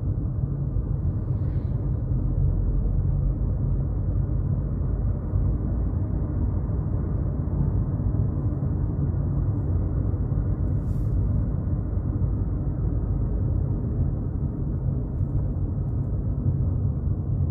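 Steady low road and engine rumble of a car driving along a highway, heard from inside the cabin.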